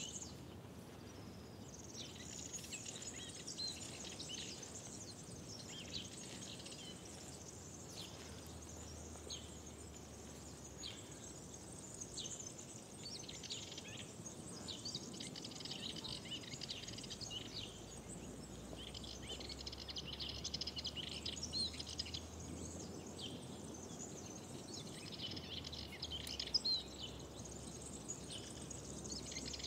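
Several songbirds singing and chirping, many short calls and trills overlapping, busier in the second half, over a faint low background hum of open air.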